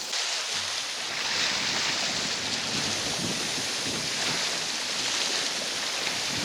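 Wind buffeting the microphone over waves washing against the flooded shoreline, a steady rushing noise.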